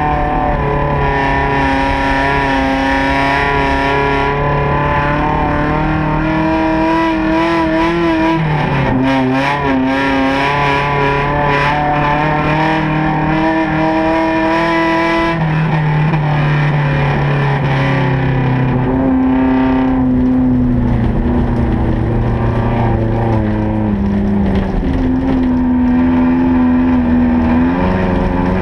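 Honda Civic ice racer's engine running hard at high revs, heard from inside the cabin, its pitch climbing and dropping through the corners with several steps in pitch from lifts and gear changes and a brief wavering about eight seconds in.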